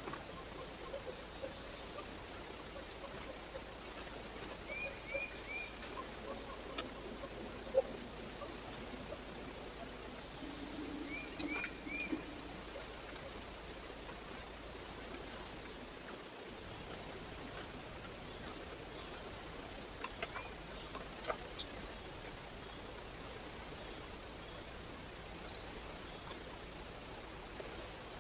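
Small birds at a feeder giving short chirps in quick runs of three, a few times, with scattered faint clicks over the steady hiss of a trail camera's microphone.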